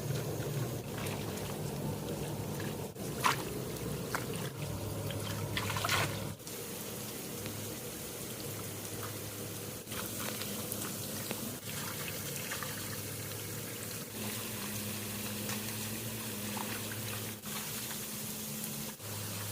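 Water trickling and flowing, with a few small splashes a few seconds in.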